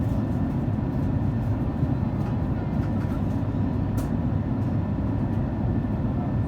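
Steady cabin noise inside an Airbus A350: a low rumble of airflow and Rolls-Royce Trent XWB engines, with a faint steady whine above it. There is a brief click about four seconds in.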